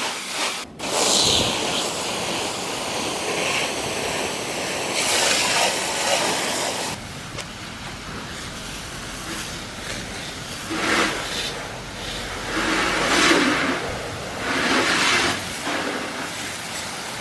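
Water spraying onto a car's body as it is rinsed off after scrubbing: a steady hiss of spray that surges louder several times in the latter part.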